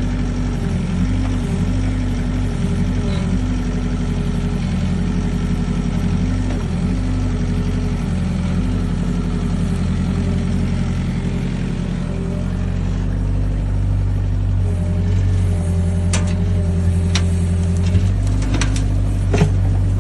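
Diesel engine of a working excavator running steadily, its note wavering and shifting under changing load, with several sharp clanks over the last few seconds.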